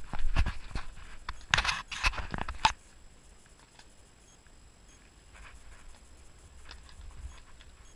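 A horse walking on a forest track: irregular hoof thumps and scuffs, loudest in the first three seconds, then only faint, scattered steps.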